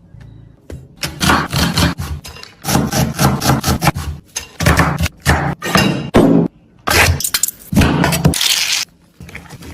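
Kitchen handling sounds: quick runs of knocks, clinks and scrapes from utensils and vessels, coming in several bursts with short pauses between.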